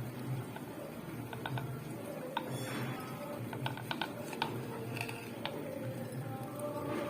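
Thick masala gravy simmering in a pot, with scattered sharp pops and plops of bubbles bursting over a steady low hum.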